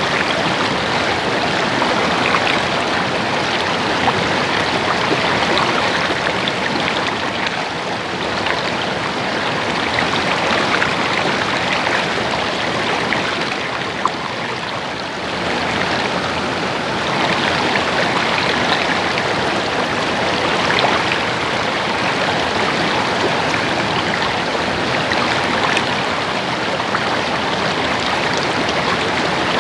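Stream water babbling and splashing steadily over stones, a dense continuous rush that eases slightly about halfway through.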